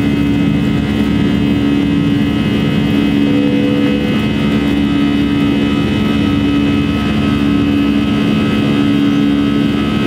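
Airbus A320 jet engines running steadily, heard from inside the passenger cabin as a constant loud drone with a steady low hum.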